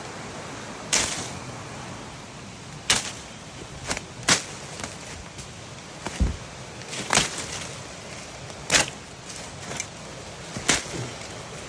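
A machete swung through brush: eight sharp swishing chops, spaced about one to two seconds apart, over a steady hiss.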